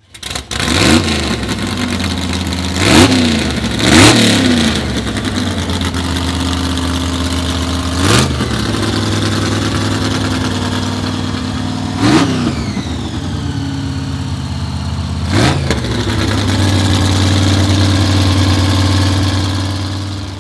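Supercharged small-block Chevy V8, a 327 bored out to 365 cubic inches with a GMC-type blower, in a 1962 Corvette gasser, idling roughly with about six sharp throttle blips. After the rev about twelve seconds in, a high whine falls away.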